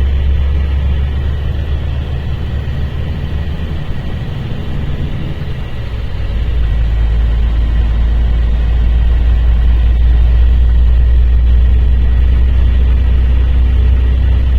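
Mercedes-Benz O-500RSD coach's diesel engine running with a steady low drone; the note eases off for a couple of seconds, then comes back louder about six seconds in.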